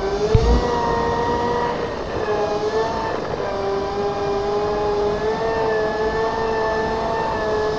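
Segway electric drive motors whining while riding, a steady tone that drifts slightly in pitch as the speed changes, with a brief low thump about half a second in.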